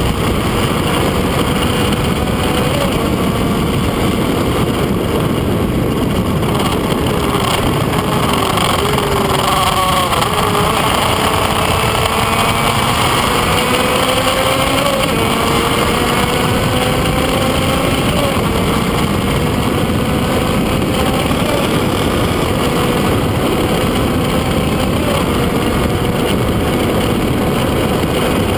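Onboard sound of a Kreidler Van Veen racing motorcycle's small two-stroke engine at speed, its note climbing and falling back again and again with the gear changes, with a warbling stretch about ten seconds in. Heavy wind rush runs under it throughout.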